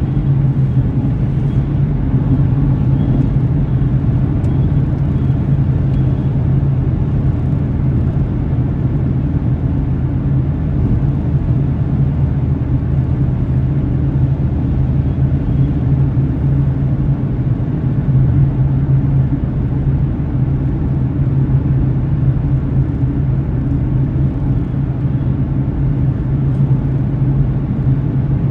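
A car driving at steady speed: an even, low rumble of engine and tyre noise that holds steady throughout.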